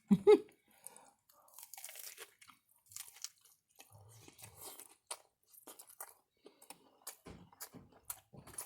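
Crunchy potato chips being chewed close to the microphone: faint, irregular crisp crackles and soft crunches that come more often near the end. A short vocal sound comes right at the start.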